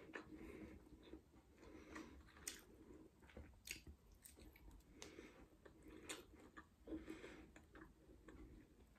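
Faint close-up chewing and biting of a fried sausage, with scattered small mouth clicks.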